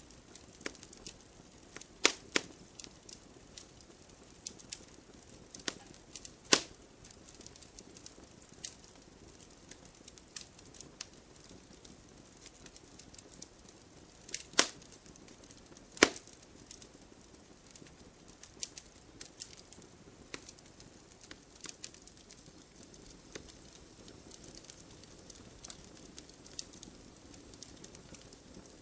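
Wood fire burning and crackling: irregular sharp pops and snaps over a low steady hiss. A few louder pops stand out about 2, 6.5, 14.5 and 16 seconds in.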